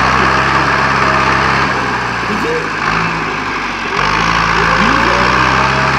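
Tractor engine running hard with a steady drone, its pitch sweeping up briefly twice as it revs.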